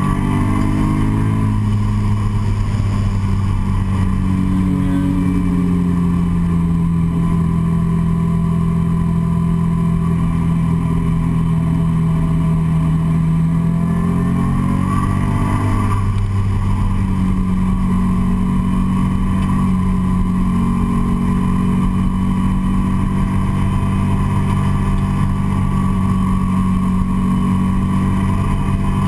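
Nissan 350Z's 3.5-litre V6 pulling hard at speed, heard from inside the cabin. The engine note dips at the start and holds steady. About halfway through it climbs, then drops sharply and holds steady again.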